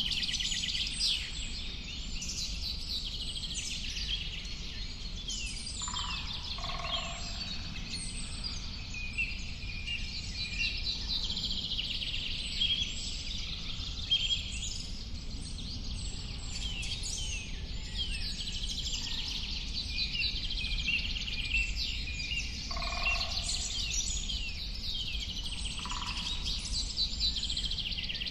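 A dense chorus of many small birds chirping and trilling without a break, with a few lower, separate calls now and then, over a steady low background hiss.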